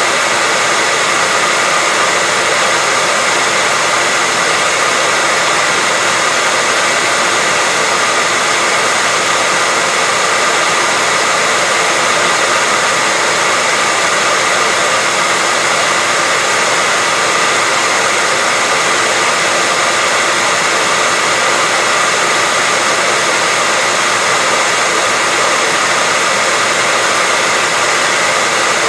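Hair dryer running steadily: a constant rush of blown air over a motor's faint steady whine, with no change in speed or level.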